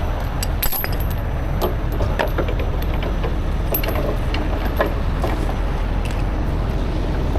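A steady low vehicle engine rumble runs throughout, overlaid with scattered short, light metallic clinks and rattles.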